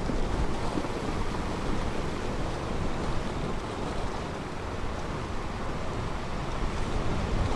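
Ocean surf washing onto a beach, a continuous wash that eases a little in the middle and builds again near the end, with wind rumbling on the microphone.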